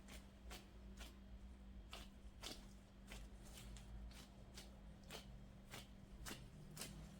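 Faint handling noises: a dozen or so short, irregular clicks and taps over a steady low hum.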